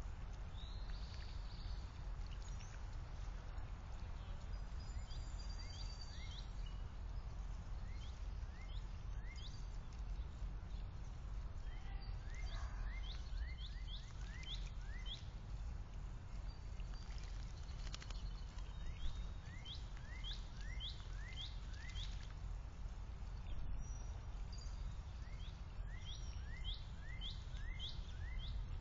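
Songbirds chirping: many short, quick chirps, often in fast runs of several, over a steady low background rumble.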